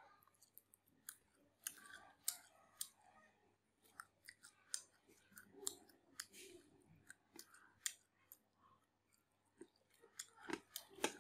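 Close chewing of bánh tráng trộn (rice paper salad): wet mouth sounds with sharp, irregular clicks and crunches, loudest in a cluster near the end.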